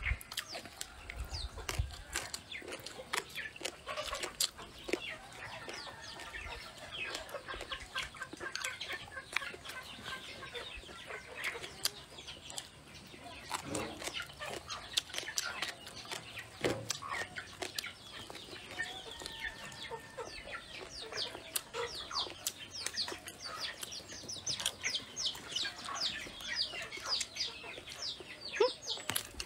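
Close-miked chewing and lip-smacking of someone eating braised pork and blistered green chillies: a dense, irregular run of wet clicks and smacks. Chickens cluck now and then in the background.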